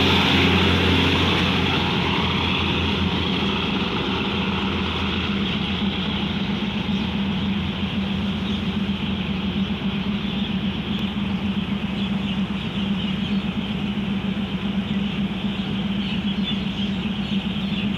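Diesel passenger train pulling out past the platform, its engine and running noise loudest at first and fading over the first few seconds. A steady diesel drone with a hiss continues after it.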